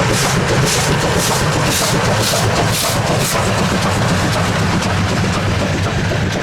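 Steam locomotive 23 042 working, its exhaust chuffing about twice a second over a steady low rumble; the chuffs stop a little past halfway while the rumble of the train carries on.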